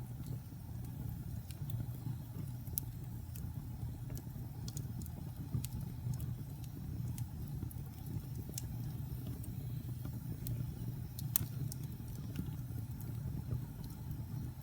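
Wood logs burning in a fireplace: a steady low rumble of the fire with scattered sharp crackles and pops, the loudest about eleven seconds in.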